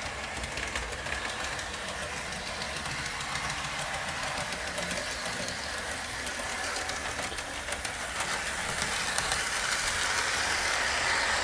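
Model F40PH diesel locomotive running along the layout's track: the motor's hum and the wheels clicking over the rails, getting a little louder over the last few seconds.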